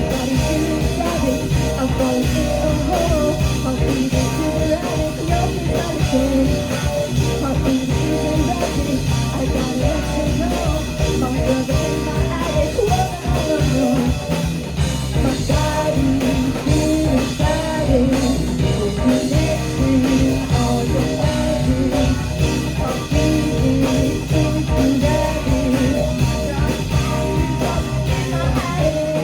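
A rock band playing live: drum kit, guitars and singing in a loud, continuous passage of the song.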